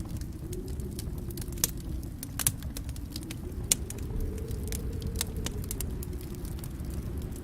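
Fire burning in a fireplace: a steady low rumble with scattered crackles and pops, and a few sharper, louder snaps.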